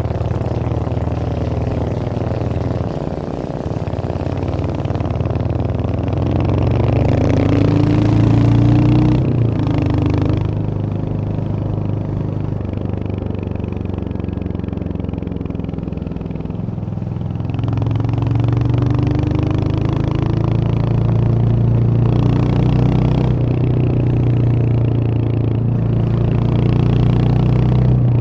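Royal Enfield Hunter 350's 349 cc single-cylinder engine running under way, pulling up through the revs. Its pitch climbs a few seconds in, drops off at about ten seconds as the throttle is eased, and climbs again after the halfway point.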